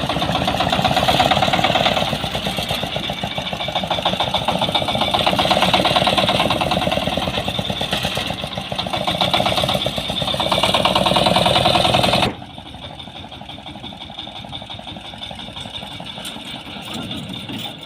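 YTO 350 P mini tractor's engine running steadily under load. About twelve seconds in it drops abruptly to a quieter, lower running sound.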